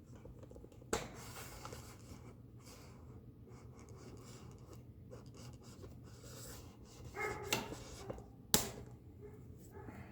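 Faint rustling and handling noise with a few sharp clicks, about a second in and again near the end, as small screws and metal parts are handled.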